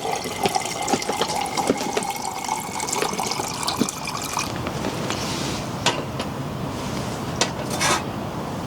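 Water pouring into a pot or kettle, stopping about halfway through. After that, a steady hiss with a few sharp clicks.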